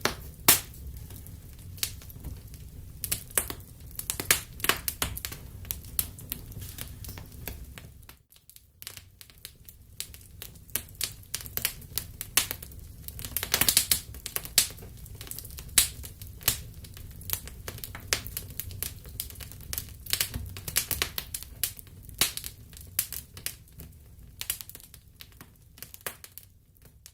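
Wood fire crackling in a fireplace: irregular sharp pops and snaps over a steady low rumble of burning. The rumble drops out briefly about eight seconds in, and everything fades out near the end.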